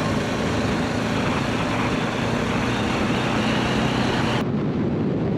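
Motorcycle riding at a steady pace: the engine running evenly under a steady rush of wind. The high hiss dulls abruptly about four and a half seconds in.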